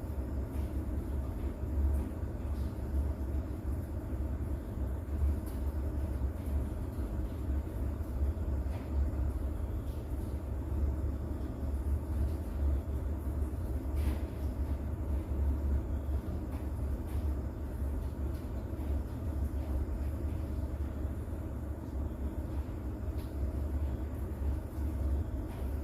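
Steady low rumble of a night rain-and-distant-thunder ambience, with a few faint scattered ticks of drops over it.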